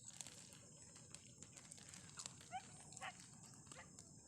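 Near silence: a faint steady high hiss, with a few faint short rising cries a little past halfway.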